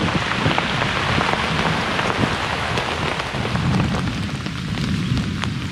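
Heavy rain pattering steadily on a hammock's rain tarp during a thunderstorm, with a low rumble of thunder underneath.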